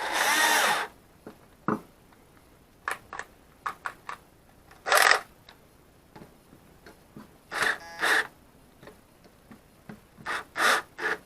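Irregular handling noises: a scattered run of sharp clicks and knocks mixed with short rustling scrapes, coming in little clusters.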